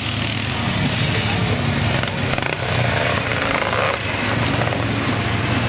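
Motocross motorcycle engines running steadily.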